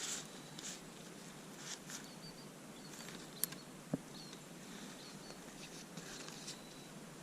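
Quiet woods with a few soft rustles of leaves and faint, high bird chirps. Two sharp clicks about half a second apart a little past the middle.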